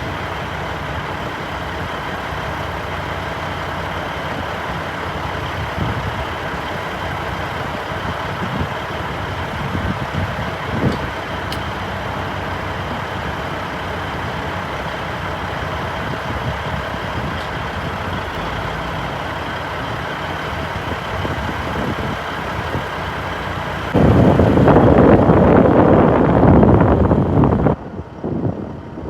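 Truck running steadily on the road, a low engine hum under road noise. Near the end a much louder rush of noise cuts in suddenly and then drops away briefly.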